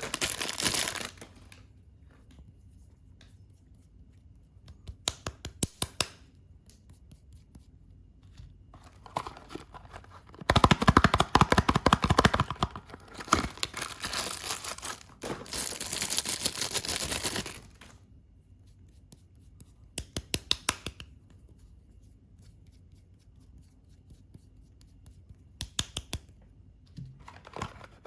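Soap packaging being unwrapped: wrapping torn and crinkled in bursts, with a long loud stretch of tearing in the middle and quiet pauses between handlings.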